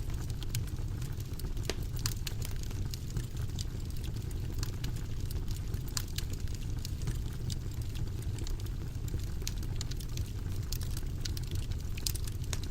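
Wood fire burning in a fireplace: a steady low roar of flames with frequent irregular sharp crackles and pops.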